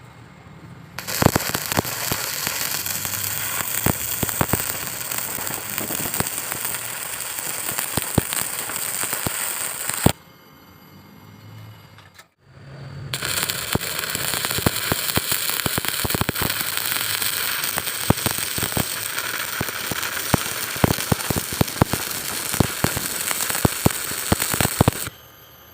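Electric arc welding: the arc crackles and spatters steadily with sharp pops in two long runs, stopping about ten seconds in and striking up again after a gap of about two seconds.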